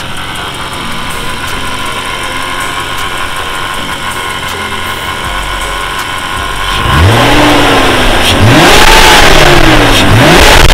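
Supercharged BMW E36 M3's S50 inline-six idling, then revved up and back down several times in quick blips about seven seconds in, getting louder.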